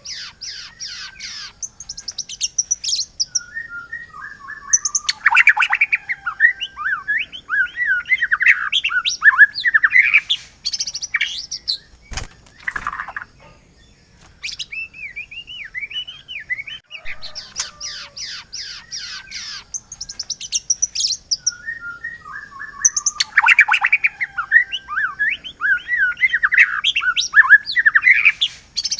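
White-rumped shama singing a rich, fast-changing song of whistles and chattering notes, played as a bird-training recording. The same run of phrases comes round again about 18 seconds later, as in a loop, with a brief pause about halfway through.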